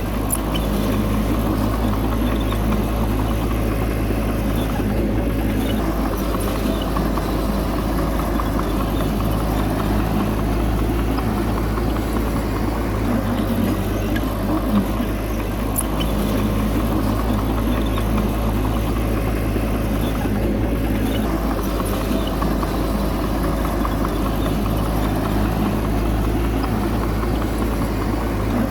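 Diesel engine of heavy earthmoving machinery running steadily at a constant pitch with a deep hum.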